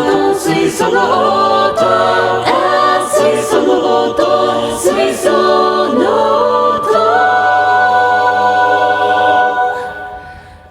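Mixed four-part a cappella chorus of layered voices singing in close harmony, with a low bass line under moving upper parts. About seven seconds in the voices settle on a long held chord, which fades out near the end.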